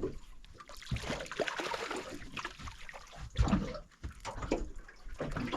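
Water sloshing and splashing beside a small boat, with scattered light knocks and clicks.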